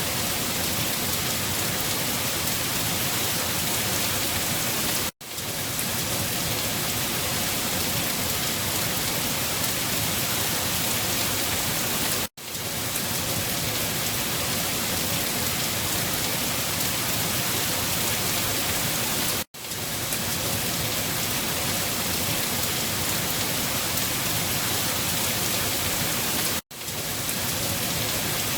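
Steady heavy rain, a dense even hiss. It cuts out for an instant four times, roughly every seven seconds, and comes straight back each time.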